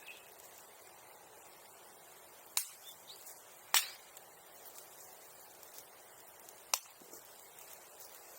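Bonfire crackling, with three sharp pops from the burning wood: one about two and a half seconds in, a louder one just under four seconds in, and another near seven seconds in.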